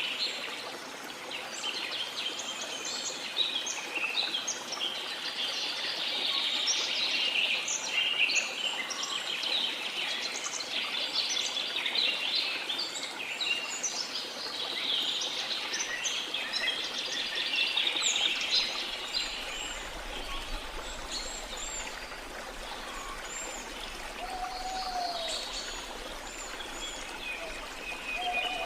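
Rain forest ambience: many birds chirping and calling over a steady rush of flowing river water, with a few lower whistled calls near the end.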